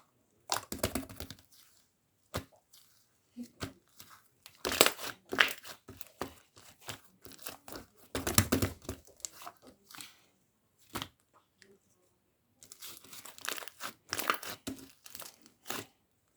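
Fluffy slime being squished, stretched and pulled apart by hand, giving irregular bursts of crackling and tearing with short pauses between.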